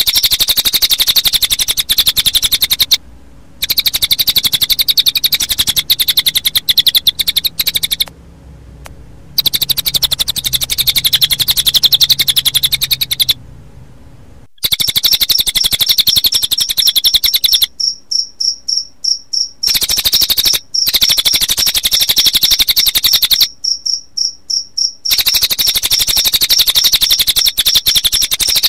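Cililin bird song combined with cricket chirping in a looped songbird-training track: loud, very rapid high trills in runs of a few seconds with short breaks, and from about halfway in a steady, high, pulsing cricket chirp running beneath.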